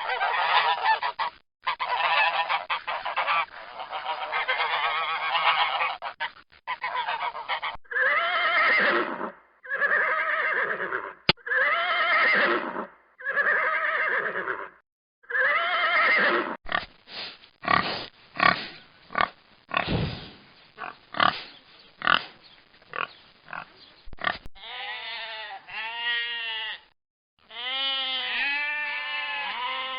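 A flock of geese honking: first a dense clamour of many overlapping calls, then a run of single long honks about a second apart, then quicker short honks. Near the end, a goat bleating with a quavering voice takes over.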